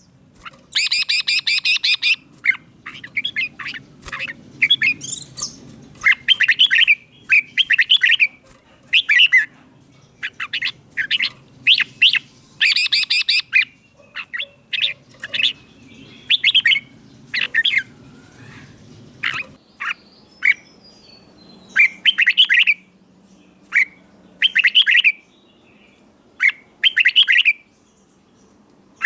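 Red-whiskered bulbul singing: a run of short, clear whistled phrases, one after another with brief pauses between them.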